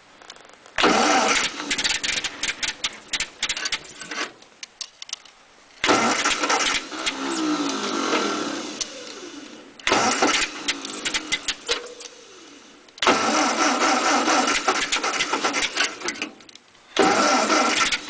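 The 6-volt starter of a 1948 Ford 8N tractor cranking its engine in five bursts of a few seconds each, with short pauses between, without the engine catching. The owner is unsure whether it is flooded or needs the choke, and later finds it flooded.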